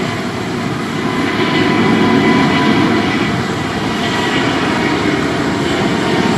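Jet airliner engines running, a loud steady rumble with thin steady whine tones over it, swelling slightly about two seconds in.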